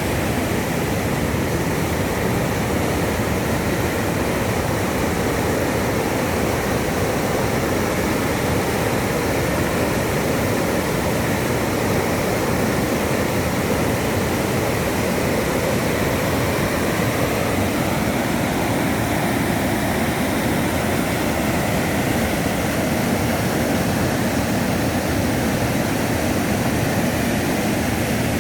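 Waterfall on a river: a steady rush of falling water with no breaks.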